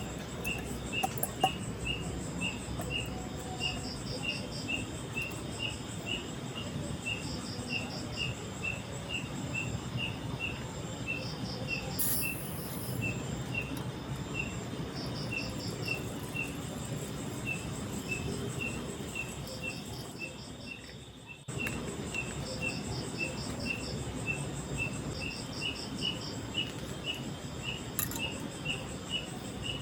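Insects chirping steadily in a forest. One gives a regular chirp about twice a second, another a short high trill every few seconds, over a low, even rushing noise.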